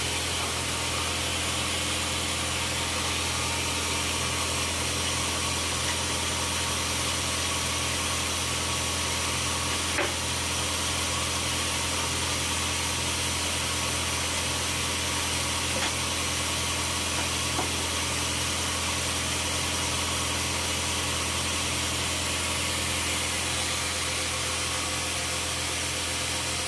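Steady engine drone of running sawmill machinery, with a strong low hum and a few faint clicks, such as at about ten and sixteen seconds in.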